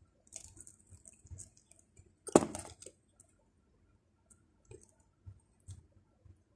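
Close-up eating sounds of someone chewing pizza: soft, scattered mouth clicks and smacks, with one louder noisy sound lasting about half a second, about two and a half seconds in.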